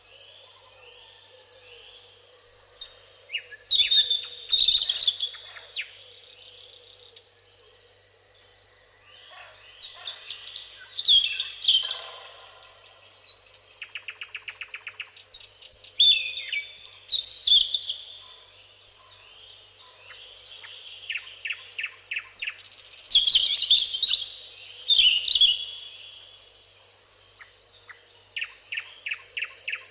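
Several songbirds singing and chirping in overlapping phrases, some as fast runs of repeated notes, over a steady high-pitched tone.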